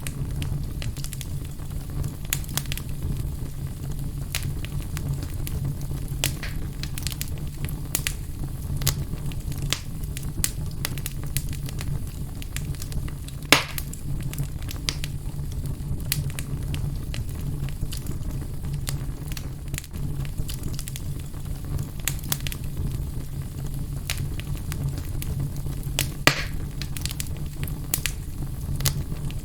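Fire burning in a fireplace, crackling with many small, irregular pops over a steady low rumble. Two louder pops stand out, about halfway through and again near the end.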